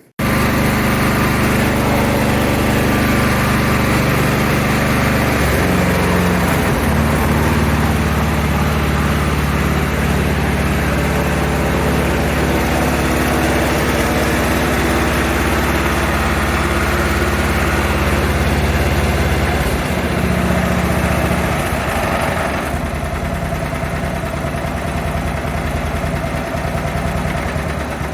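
MTD Lawnflite 548 lawn tractor's petrol engine running steadily just after being started on the key. Its note shifts slightly a few seconds in, and it runs a little quieter for the last few seconds.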